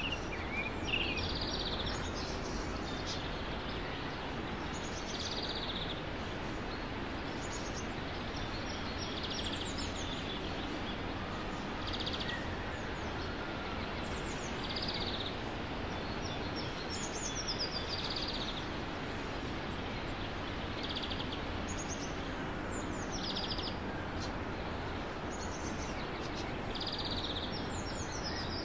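Outdoor ambience: birds chirping in short phrases every second or two over a steady hiss of background noise.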